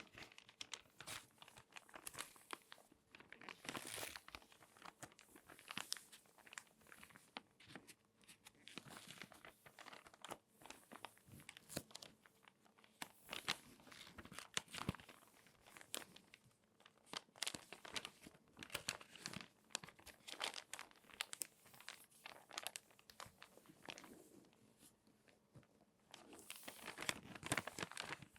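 Crinkly magazine pages being folded and crumpled by hand, a continuous run of sharp paper crackles. The crackling grows thicker and louder shortly before the end.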